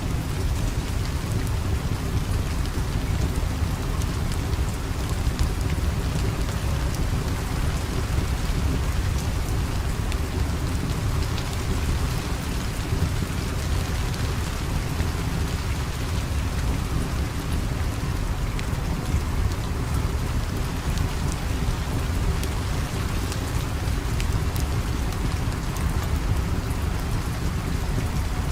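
Steady rain with a deep, continuous low rumble underneath and scattered faint ticks of drops.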